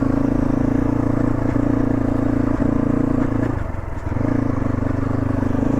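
Motorcycle engine running steadily while riding, with a brief dip in engine sound about three and a half seconds in before it picks up again.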